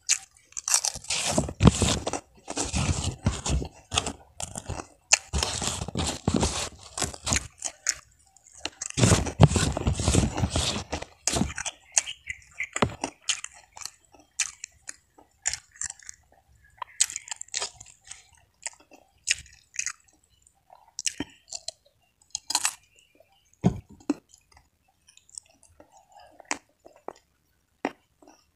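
Close-up crunching and chewing of a kerupuk (fried Indonesian cracker): loud, dense bites for about the first eleven seconds, then sparser, softer chewing clicks.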